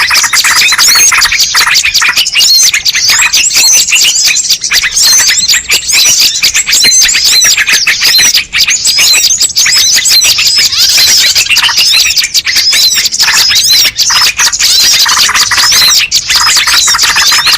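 A loud, dense chorus of many small songbirds chirping and calling over one another without a break: a bird-lure (pikat) recording used to draw wild birds in.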